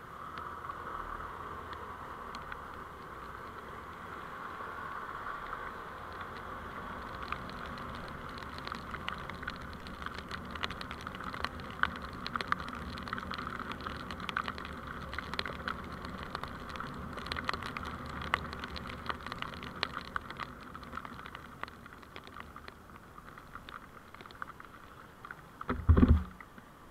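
A vehicle's steady road and running noise picked up by a dashcam. Through the middle stretch it is scattered with many irregular small clicks and ticks, and a single heavy, deep thump comes near the end.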